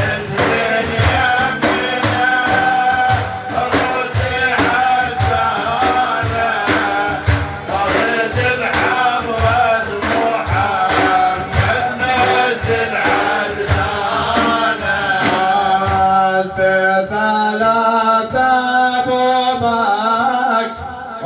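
Sufi devotional manqaba music: male singing and chanting over a steady, regular drum beat, with a short dip in loudness near the end.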